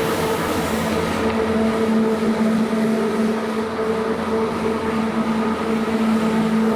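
A carpet-cleaning machine's motor running steadily with a loud hum over a hiss; the upper hiss eases slightly about a second in.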